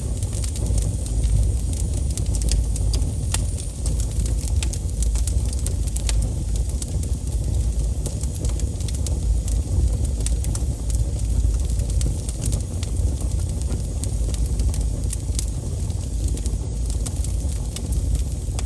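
Wood fire crackling, with frequent sharp pops from sap in the burning wood over a steady low rumble.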